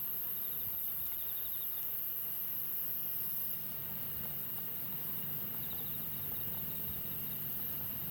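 Crickets chirping in two short pulsed trills, over a steady high hiss and a low rumble.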